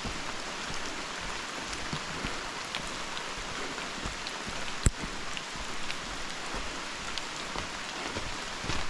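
Steady rain falling on rainforest foliage, a hiss with scattered drops ticking. One sharp tap about five seconds in stands out above it.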